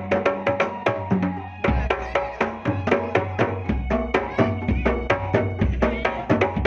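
Kendang drums played in fast, dense strokes in pencak silat accompaniment music through a loud sound system, with held pitched notes over the drumming and deep bass notes that come in about two seconds in.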